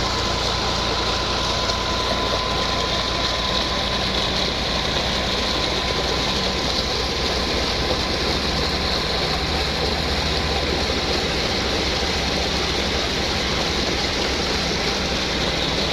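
Tractor engine running steadily under PTO load, driving a water-well drilling rig, with a faint steady whine over the engine noise.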